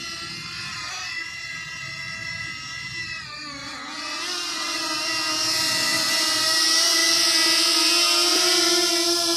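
Quadcopter drone's propellers whining, the pitch dipping about three seconds in, then growing louder and steadier.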